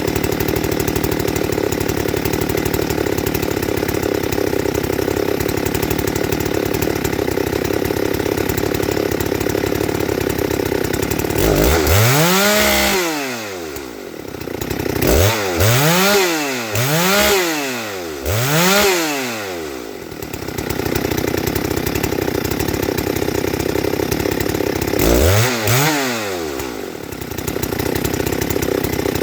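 Husqvarna 394XP two-stroke chainsaw engine, ported, running steadily and revved up and back down several times: one long rev, then four quick blips in a row, then one more near the end.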